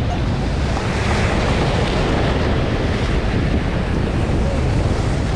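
Strong wind buffeting the microphone over steady sea surf, a continuous rushing noise with heavy low rumble.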